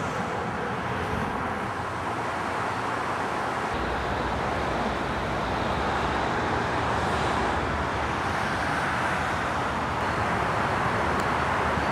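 Steady city traffic noise: a constant wash of passing road vehicles, with a low rumble joining about four seconds in.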